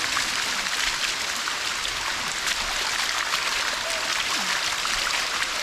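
Steady rush of water from a waterfall and stream over rocks, an even hiss with small splashes running through it.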